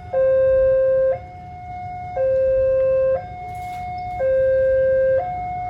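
Railway level-crossing warning alarm sounding its electronic two-tone signal, switching between a lower and a higher tone about once a second, with the lower tone louder. It warns that a train is approaching the crossing.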